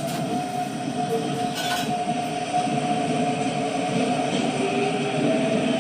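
Yokohama Municipal Subway Blue Line 3000S series train pulling away from a station. Its traction motors whine in steady tones that rise slightly as it gathers speed, over growing wheel and rolling noise, with one sharp click about one and a half seconds in.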